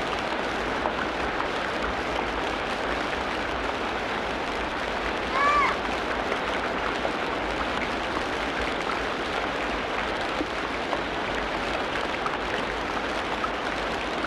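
Tropical rainforest ambience: a steady, dense hiss like rain on foliage, with scattered faint clicks. One short arched animal call stands out about five and a half seconds in.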